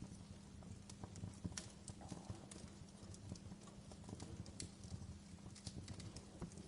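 Wood fire in a fireplace crackling quietly, with irregular sharp pops and snaps over a low steady background.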